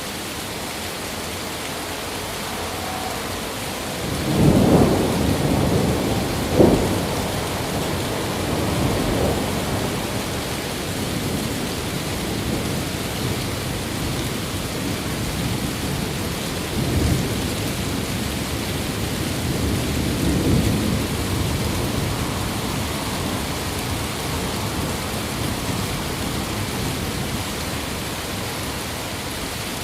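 Thunderstorm: steady rain with thunder rolling in about four seconds in, with two sharp cracks, then dying away into rumbles. Further softer rolls of thunder come later.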